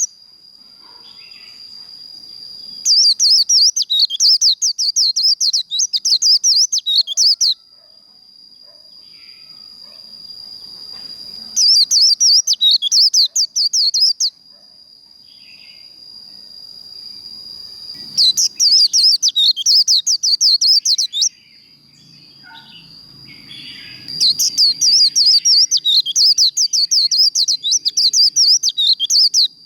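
White-eye (vành khuyên) singing its rapid, twittering 'líu' song in four loud bursts of a few seconds each, the last running to the end. A steady high whine sounds throughout.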